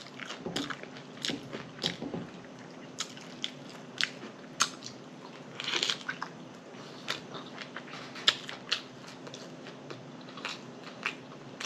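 Close-miked chewing and mouth sounds of someone eating a bun-less double cheeseburger: irregular clicks and smacks, with a louder cluster about six seconds in.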